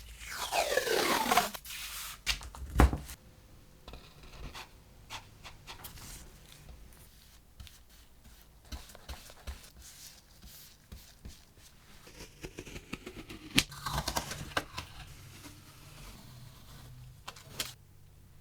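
Workshop work on old machine parts. A whine falls quickly in pitch twice, each followed by a sharp knock, with scattered clicks and scraping between.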